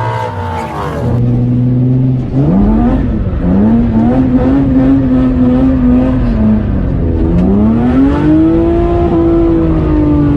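Turbocharged car engine pulling hard twice. The engine note climbs quickly and holds high, drops, then climbs and holds again before falling away near the end.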